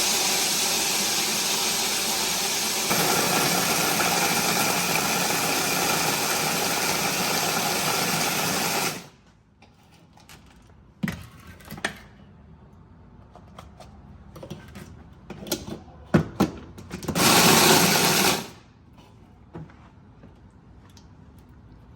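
Electric kitchen grinder grinding dry puppy kibble into powder. It runs steadily for about nine seconds, changing tone about three seconds in, then stops. A few knocks and taps follow, then a second short burst of grinding.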